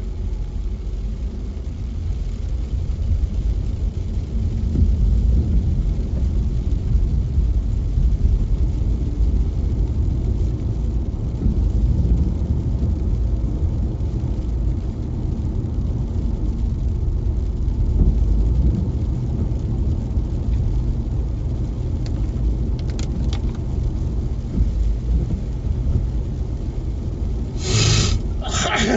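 Car driving on wet streets: a steady low road and engine rumble. Two short, loud noises come near the end.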